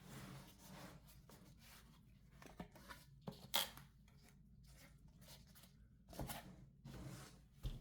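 Faint handling noises: scattered rustling with a few small clicks, the loudest rustle about halfway through.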